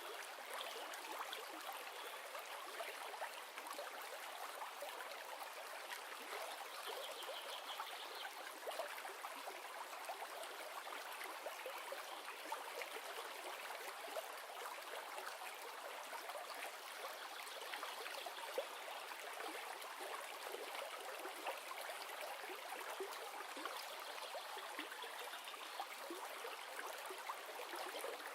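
A river's running water, a steady rush with fine trickling and no deep rumble.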